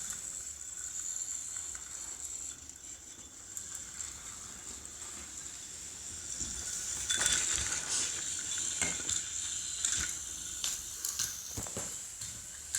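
Battery-operated toy train motors whirring with a steady high whine, with clicks and clatter of the trains on wooden track. The clicks and knocks come thicker about halfway through.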